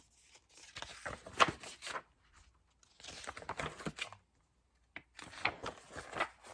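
Paper rustling and crinkling in three bursts: the pages of a picture book being handled and turned.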